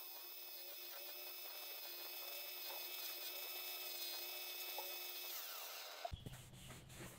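Small electric power-tool motor running with a steady high whine, then winding down shortly before the end, after which a few clicks and knocks follow.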